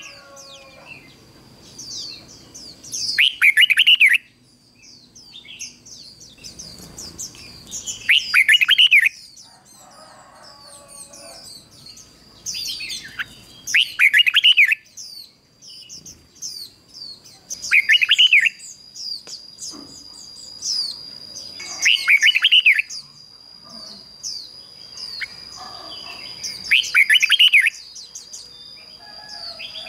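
Red-whiskered bulbul singing loud short phrases about every four to five seconds, with quick higher chirps in between; this is the song of a lure bird used to call in wild bulbuls.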